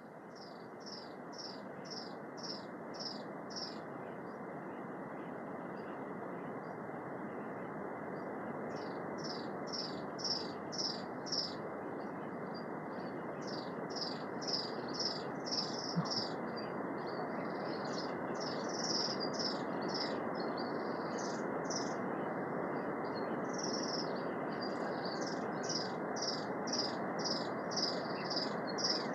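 Native-forest ambience: a bird chirping in runs of rapid, high notes, about three or four a second, repeating throughout, over a steady hiss.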